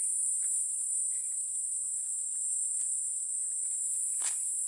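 Steady, high-pitched insect chorus droning without a break, with a faint click about four seconds in.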